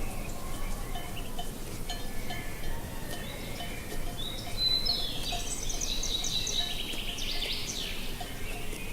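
Songbirds chirping over a steady low wind, with one bird's louder song about five seconds in that ends in a rapid trill.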